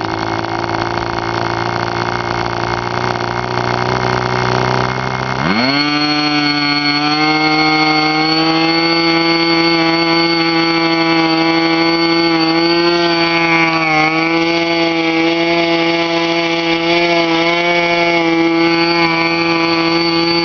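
K&B Fuji .05 two-stroke model airplane glow engine with a muffler, idling steadily at first. About five seconds in, the throttle opens and it revs up quickly and smoothly to a high, steady note, holding there with slight wavers.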